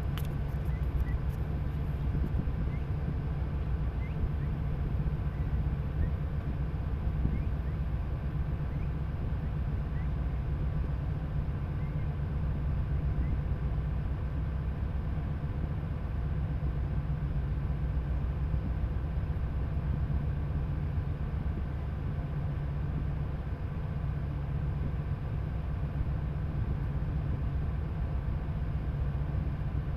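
Tugboat's diesel engines running steadily under way: a constant low drone with a few faint steady tones above it.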